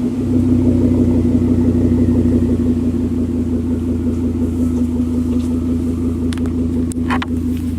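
2006 Volvo S80's 2.5-litre turbocharged inline-five idling steadily through a muffler-deleted exhaust, with a deep, even thud. A few faint clicks come near the end.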